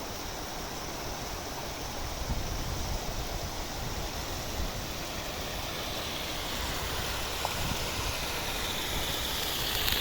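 River water flowing, a steady rushing that grows gradually louder toward the end.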